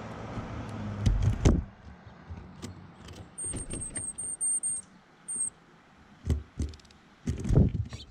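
Birds at a feeder: a low rumble ends with a thump about a second and a half in, followed by scattered sharp taps and knocks. In the middle come a run of very high, thin bird notes and then one more.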